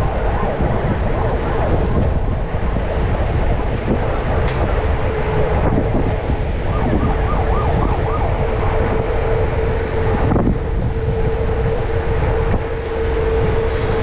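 Wind rumbling on the microphone, with a steady tone held through the second half.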